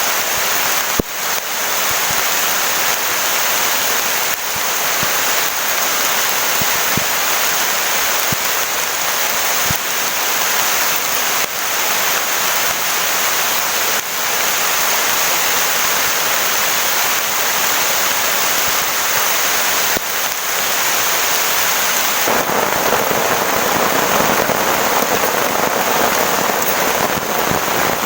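Heavy rain pouring steadily, with a few sharp drop strikes close by. About 22 seconds in the downpour grows heavier and fuller.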